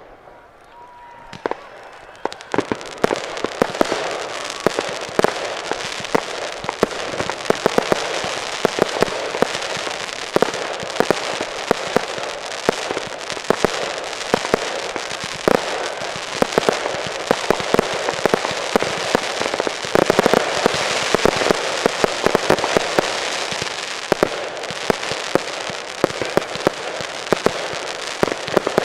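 Fireworks display: after a quieter first two seconds, a dense, continuous crackle of many rapid sharp pops sets in and keeps going, with louder bangs scattered through it.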